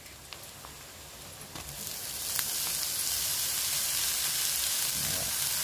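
Chopped leafy greens hitting hot oil and fried onion in a steel kadhai. About two seconds in, a loud, steady frying sizzle starts up and holds.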